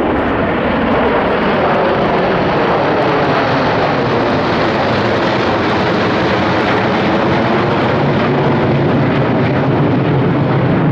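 Military aircraft flying over in a parade flypast: a loud, steady rush of engine noise that grows lower and duller toward the end.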